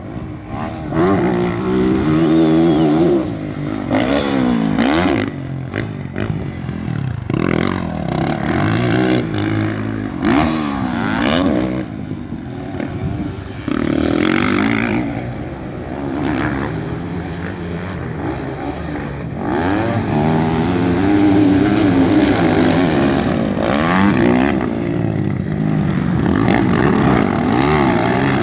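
Racing motorcycle engines revving hard, their pitch climbing and dropping over and over as bikes accelerate, shift and pass, with several sharp swoops of pitch as they go by.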